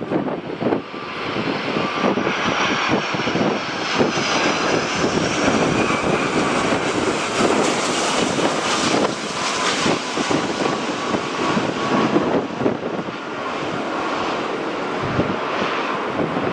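Jet airliner's engines roaring past on approach in strong wind, with a faint high whine. The noise swells to its loudest through the middle and eases off near the end.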